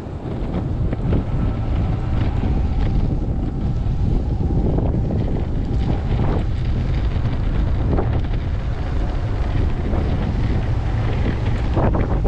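Wind buffeting the microphone of a camera carried on a moving electric skateboard: a dense, steady low rumble with a few faint ticks.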